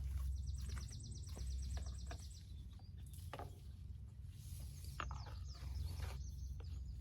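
A bird's rapid, evenly pulsed high trill for the first couple of seconds, over a steady low rumble. Scattered short knocks and rustles follow, about three and five seconds in.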